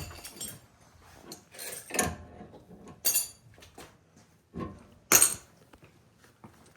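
Metal hand tools and hardware clinking and clattering as they are handled: several separate sharp metallic clinks, the loudest about five seconds in.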